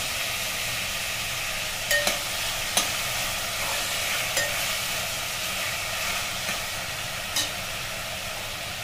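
Chopped potato, tomato and green peas frying and sizzling in a pressure cooker pot while a steel spoon stirs them, the spoon clinking against the pot a few times.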